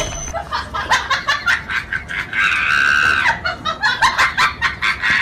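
A person laughing hard in quick repeated bursts, with a drawn-out high squeal about two and a half seconds in.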